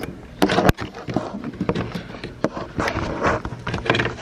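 Clattering knocks, clicks and scraping of plastic and metal parts being worked loose, as a coach bus's overhead video monitor is slid off its mount. A loud scrape about half a second in ends in a sharp click.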